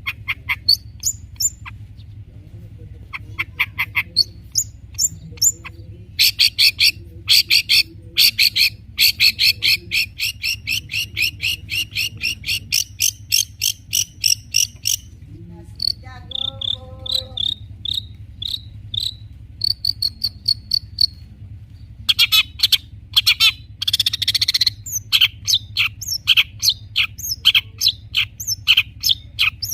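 Long-tailed shrike (cendet) singing a loud, varied song of sharp repeated notes, including a long fast run of about five notes a second, broken by short pauses about halfway through and again about three-quarters of the way in.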